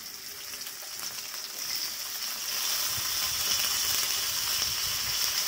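Potato chunks sizzling in hot mustard oil in a frying pan as they go in. The frying hiss grows louder over the first two or three seconds, then holds steady.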